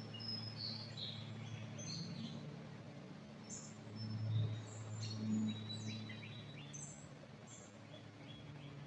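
Small songbirds chirping and twittering in a pine forest: scattered short high calls and quick sliding notes, with one longer level whistle around the middle, over a steady low rumble.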